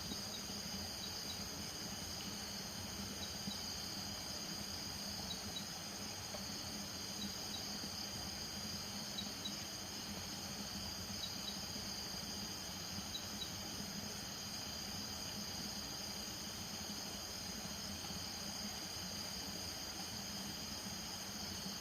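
Night chorus of crickets and other insects: a steady high trill, with a short double chirp repeating about every two seconds until about two-thirds of the way through, over a low steady hum.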